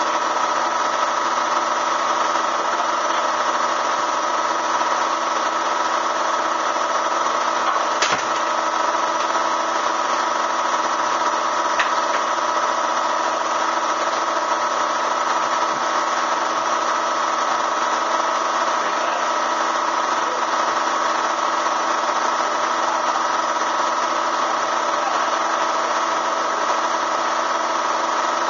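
Bee vacuum's motor running steadily with a constant whine, with two brief clicks about a third of the way in.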